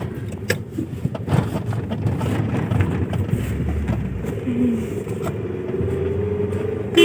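Car driving on the road, with engine and tyre noise heard from inside the cabin and a few light knocks.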